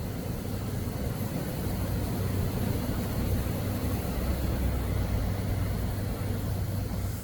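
Steady low mechanical rumble with a hiss over it, swelling slightly in the middle and easing off near the end.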